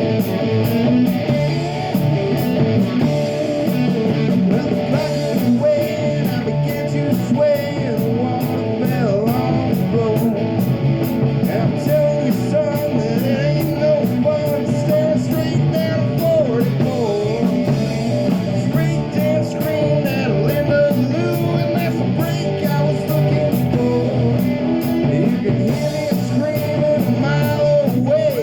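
Live rock band playing with electric guitar, bass and drums, a steady beat throughout.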